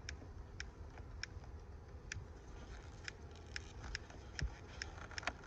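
Hive tool prying apart propolis-sealed hive parts: a series of small, sharp clicks and cracks, about one or two a second, coming more often in the second half.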